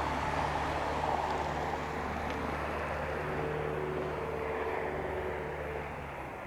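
Light airplane's engine running steadily during its takeoff roll, a low drone that slowly fades and drops away near the end as the aircraft moves off.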